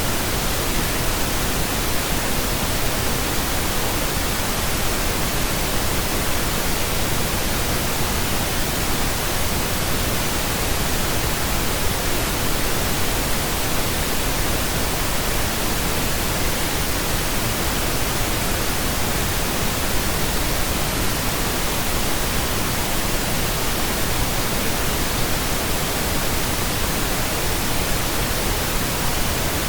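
Steady pink noise: an even, unchanging hiss spread across the whole range from deep rumble to high treble.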